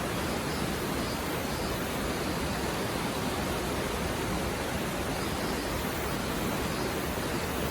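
A mountain river stream flowing over rocks: a steady, even rush of water with no breaks.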